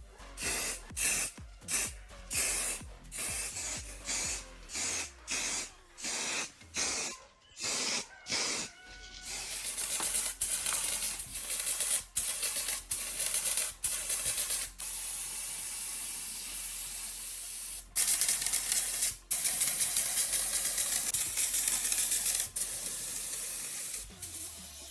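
Paint being sprayed onto a scale model: short hissing strokes about twice a second, then from about nine seconds in a long, nearly unbroken spray hiss with a few brief pauses.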